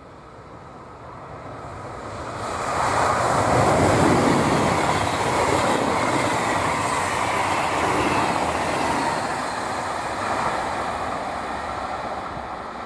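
Italian regional passenger train passing at speed: its rush grows over the first few seconds, peaks about four seconds in, then fades slowly as it moves away.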